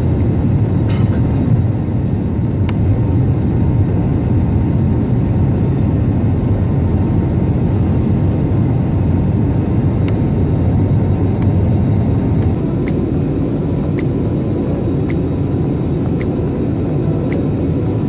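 Airbus A320neo jet engines and airflow heard from inside the cabin as a loud, steady rumble, with a run of light ticking clicks starting about two-thirds of the way in.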